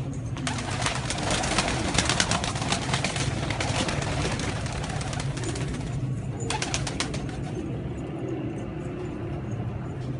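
Homing pigeons cooing over a steady low hum, with clusters of sharp clicks and rustles through the first half and again briefly around six to seven seconds in.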